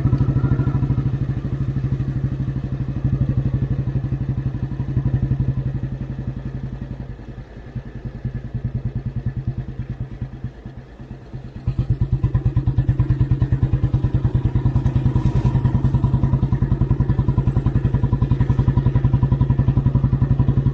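Old Royal Enfield Bullet 350's single-cylinder four-stroke engine running under way, its evenly spaced exhaust beats coming properly through a repaired, re-chromed silencer after a full engine rebuild. About six seconds in it quietens as the throttle eases off, then comes back sharply to full level just before the twelve-second mark.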